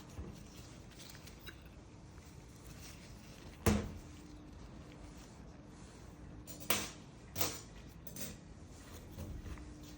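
Parts of an SC91 air pump being handled and taken apart: scattered clicks and knocks, the loudest about four seconds in and two more around seven seconds.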